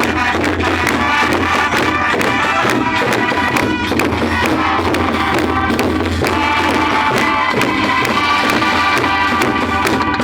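Student brass band playing a tune over a steady beat of drums and cymbals.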